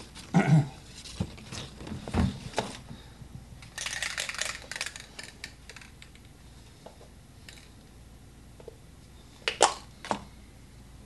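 Scattered knocks and clatter of objects being handled and set down on a work table, with a rustling stretch of about a second in the middle and two sharp knocks near the end.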